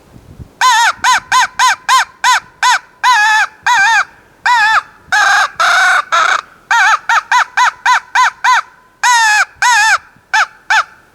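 Black walnut mouth-blown crow call sounding a long series of loud caws in the cadence of a crow: quick runs of short, clipped caws broken by a few longer, drawn-out ones, one of them rougher, about halfway through.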